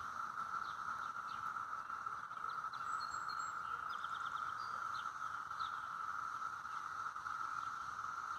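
A chorus of cicadas singing to mate in the trees: a steady, even, Martian-like drone, with a few short, high chirps scattered over it.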